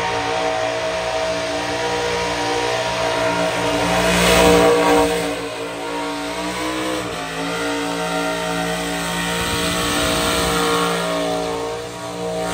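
Burnout car's engine held at steady high revs during a skid. The revs drop briefly about seven seconds in and climb straight back.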